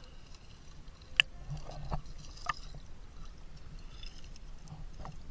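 River water splashing and lapping around a swimmer, with a few sharp slaps of water, the loudest about a second in.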